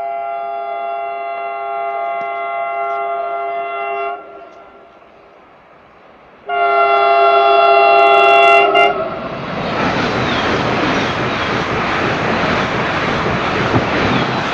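Intercity+ express train sounding its multi-tone horn in two long blasts, the second shorter and louder, then rushing past the station with loud wheel and air noise.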